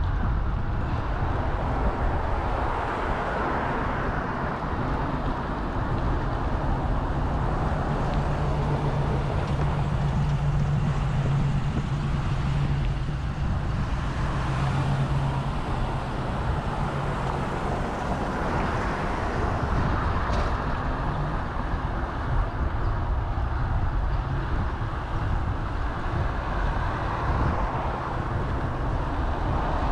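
Steady road and traffic noise heard from a moving bicycle, with wind rumbling on the microphone. A low engine hum holds for several seconds around the middle.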